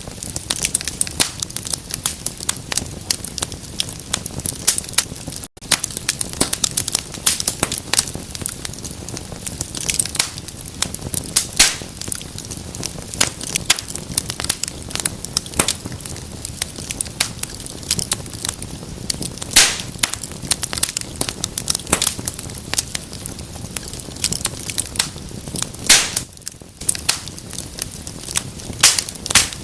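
Wood fire burning in a fireplace: dense, irregular crackling with sharp pops of varying loudness over a low, steady rumble of flame. The sound cuts out for an instant about five and a half seconds in.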